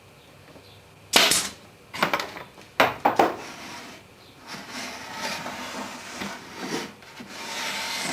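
Four sharp wooden knocks, then a hand saw cutting through a board in strokes about twice a second, running more steadily near the end.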